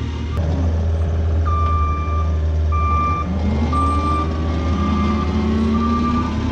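Diesel heavy equipment running while reversing, its backup alarm beeping about once a second over the steady engine rumble; the engine revs up around the middle.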